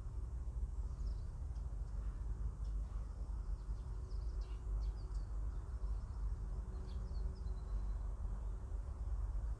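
Scattered bird chirps over a steady low outdoor rumble; no bells are struck.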